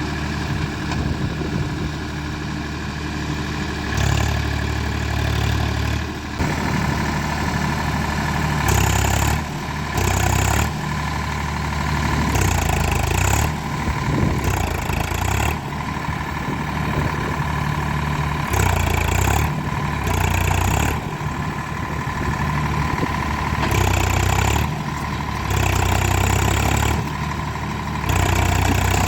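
Diesel tractor engines running under load, revved up in repeated surges of a second or two and dropping back between them, as one 4WD tractor strains to pull another out of where it is stuck.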